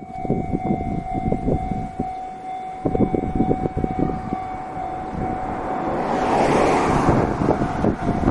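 A railway level crossing alarm sounds a steady siren-like tone over the low rumble and irregular clatter of a Nishitetsu train. A rush of hissing noise swells about six seconds in, then fades.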